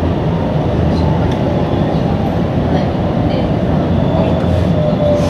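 Steady rumble of an electric commuter train, heard from inside the passenger car as it runs slowly into a station. Near the end a faint thin tone slides slightly lower, as the train brakes for its stop.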